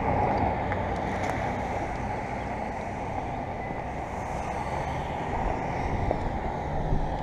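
Steady wind noise rumbling on the microphone, starting abruptly, with no distinct events.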